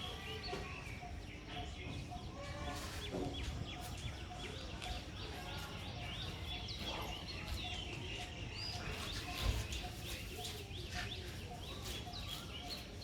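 Birds calling: many short high chirps, and a regular run of short lower calls about twice a second, over a steady low background hum.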